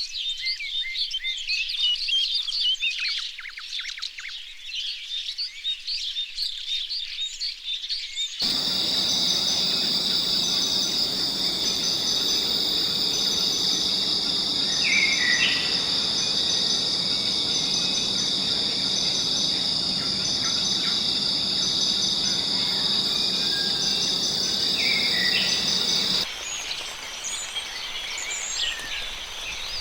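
Many birds chirping and calling over one another. About eight seconds in the sound cuts abruptly to a steady, high-pitched insect chorus with a faint pulsing note above it, broken by a couple of short rising calls. The bird chirping returns abruptly about four seconds before the end.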